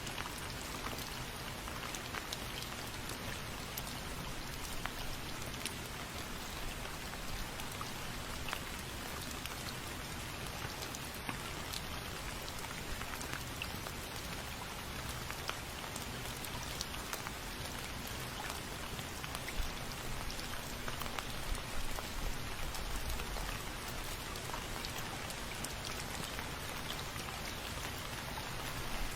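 Steady rain falling, an even hiss scattered with the sharp clicks of single drops striking a surface.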